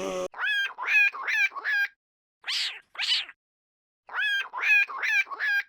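An animal giving short pitched calls, four in quick succession, then two breathy hissing bursts, then four more quick calls.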